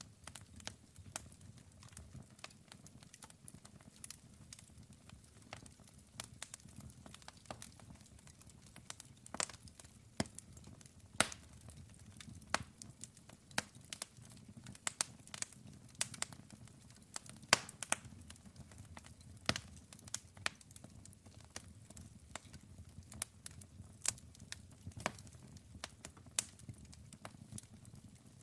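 Wood fire burning with irregular sharp crackles and pops from the burning wood over a low, soft rumble of the flames.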